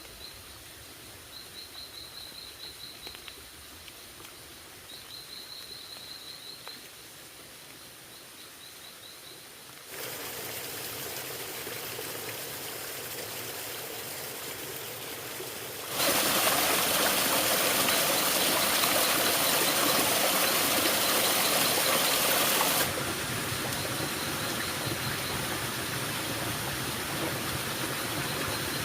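Quiet forest background with short trains of high, rapidly pulsed insect chirps. About a third of the way in, steady running-water noise cuts in abruptly. It steps up louder for several seconds in the middle, then drops back somewhat.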